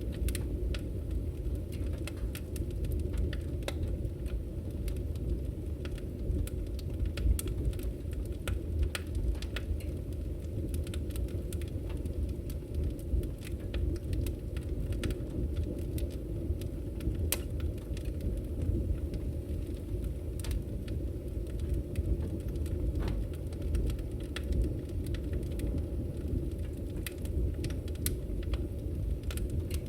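Firewood burning in a Victory Camp Taiga wood stove: a steady low rumble from the fire, with scattered sharp crackles and pops throughout.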